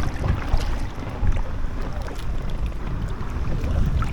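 Wind rumbling and buffeting on the microphone, with the light splashes and drips of a kayak paddle dipping into canal water.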